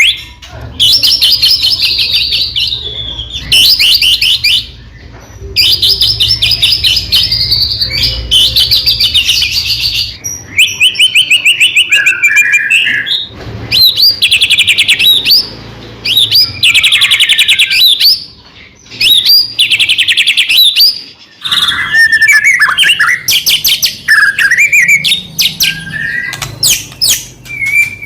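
White-rumped shama (murai batu) singing at full intensity: loud phrases of rapid trilled and chattering notes, each one to two seconds long, separated by short pauses.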